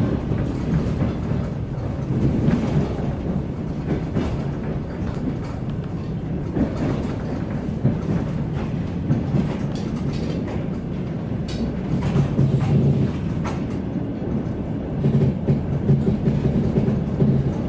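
Passenger train running, the steady rumble of wheels on the track heard from inside the carriage, with scattered short clicks.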